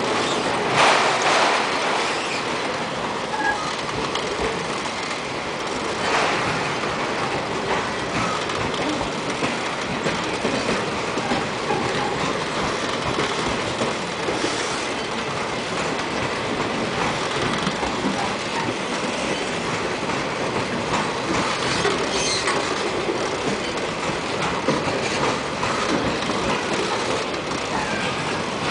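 Freight cars rolling past at close range: steel wheels running on the rails with a steady, continuous noise, broken by a few short clacks and clanks.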